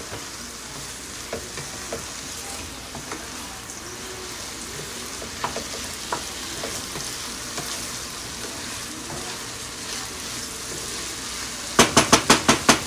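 Glutinous rice and chicken frying in a pan with a steady sizzle and scattered small pops. Near the end, a quick run of sharp knocks, about ten a second, as the mix is stirred against the pan.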